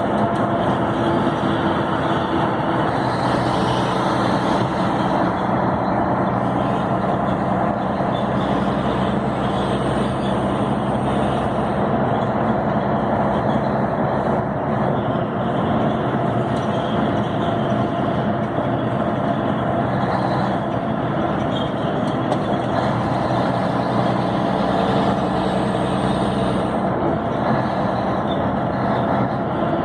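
Scania 112 truck's 11-litre six-cylinder diesel engine running steadily at an even speed while the truck drives along, with continuous road noise.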